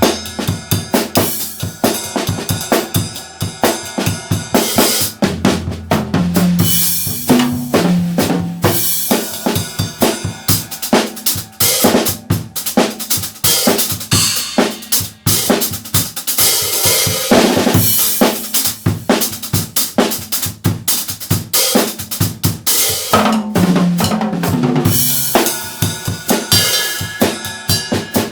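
Yamaha acoustic drum kit played solo: a busy groove of bass drum, snare hits and rimshots and cymbals, with fills around the toms.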